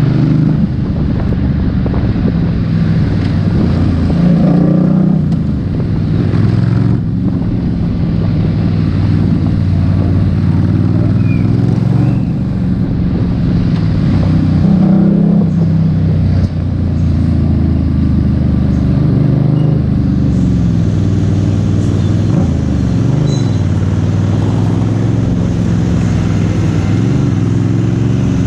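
FKM Coolser 500 motorcycle with a straight-pipe exhaust being ridden, its loud engine note rising and falling repeatedly as the rider accelerates and eases off.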